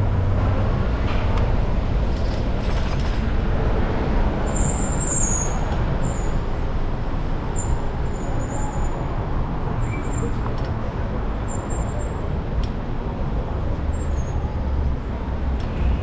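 Steady city traffic and road rumble heard while riding an e-bike, heaviest in the low end. A few brief high squeaks come between about four and twelve seconds in.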